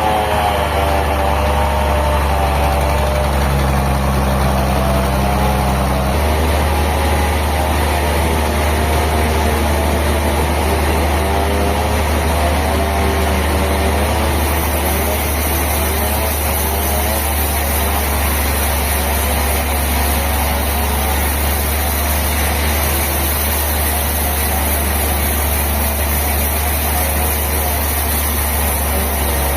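Sawmill machinery running steadily: a heavy engine-like hum with a wavering whine above it, whose low note shifts about six seconds in.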